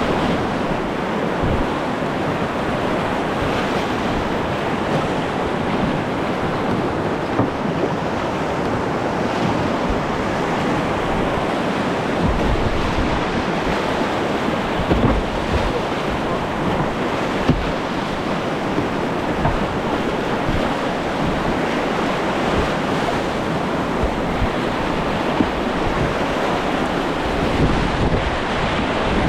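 River water rushing steadily around a kayak on a whitewater run, with wind rumbling on the action-camera microphone.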